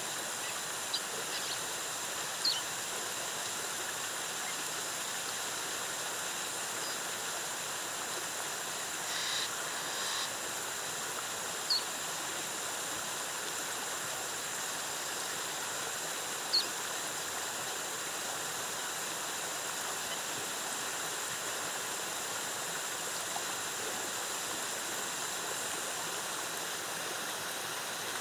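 Waterfall and stream water rushing steadily. A few short, high chirps stand out over the water noise.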